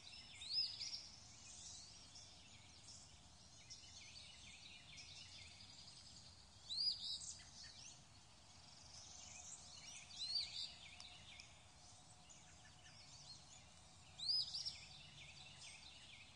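Faint outdoor ambience with a bird calling: short, high, rising chirps in four clusters a few seconds apart over a low hiss.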